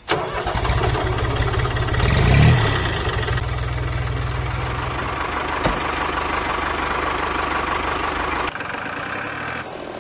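A motor or engine running steadily with a fast, pulsing low rumble. It swells briefly about two seconds in, and the low rumble drops away sharply near the end.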